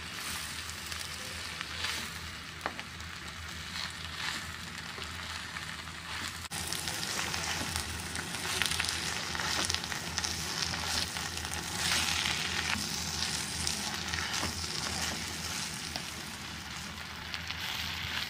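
Drumstick (moringa) leaves sizzling in hot oil with onion and garlic in a clay pot while being stirred and tossed with a wooden spatula.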